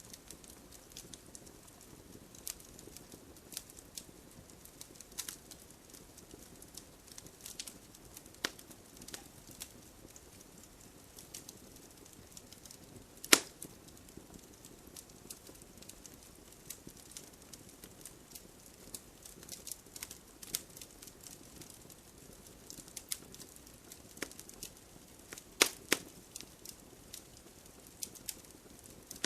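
Wood fire crackling: scattered sharp pops and snaps over a soft low hiss, with one loud pop about halfway through and a quick cluster of loud pops near the end.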